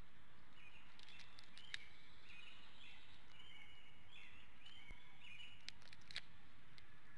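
A bird calls in a run of short, clear notes repeated about once or twice a second, over steady outdoor background noise, with a few faint clicks.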